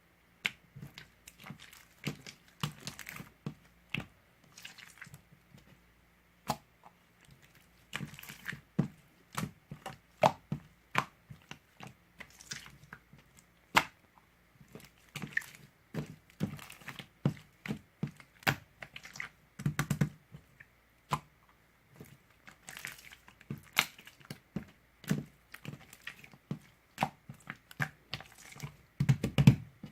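Close, irregular crackling and crunching clicks, many a second, with a few heavier crunches.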